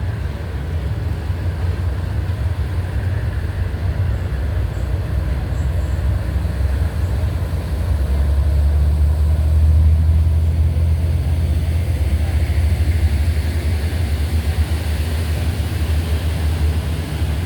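Steady low engine rumble of a ferry boat, growing louder about eight seconds in and easing off after about twelve seconds.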